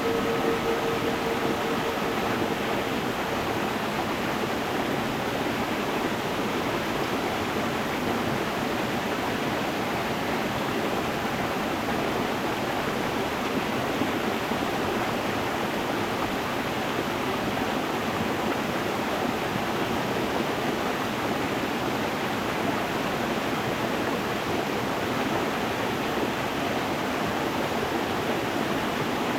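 Stream water rushing steadily over stones. A singing bowl's ringing tone fades out during the first two or three seconds.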